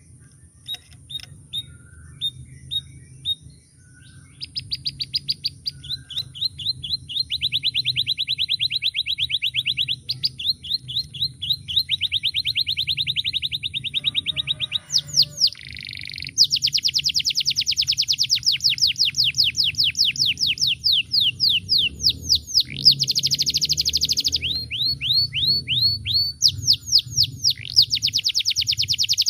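Male domestic canary singing: a few separate chirps, then long, fast trills of rapidly repeated high notes, each roll changing pitch and speed from the last.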